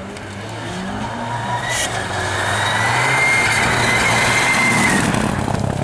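Rally car engine at high revs approaching at speed, growing steadily louder with a rising whine to a peak about three to five seconds in, then falling away as it passes.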